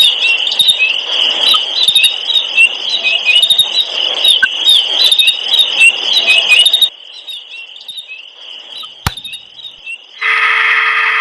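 Dense chorus of rapid, high-pitched chirps that stops abruptly about seven seconds in. A single sharp click follows a couple of seconds later, then a brief steady pitched tone near the end.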